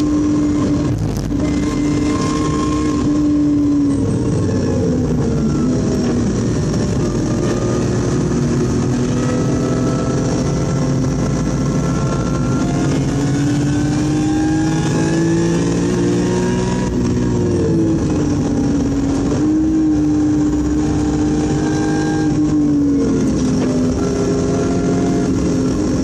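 BMW E46 M3's straight-six engine heard from inside the cabin at track speed. Its pitch climbs gradually and drops back sharply several times, about 4, 17 and 23 seconds in, over steady road and wind noise.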